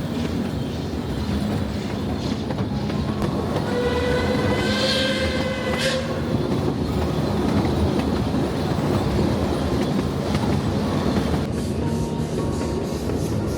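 Puffing Billy steam train running on the rails with a steady rumble and clatter, and one blast of its steam whistle about four seconds in that lasts about two seconds and cuts off sharply.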